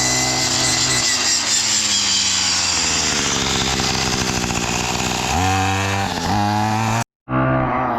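Gas Troy-Bilt string trimmer fitted with a chainsaw-tooth brush cutter blade, running at high revs while cutting brush, its engine note sagging slightly under load. After about five seconds the engine revs up and down twice in quick succession, and the sound drops out for a moment just after seven seconds.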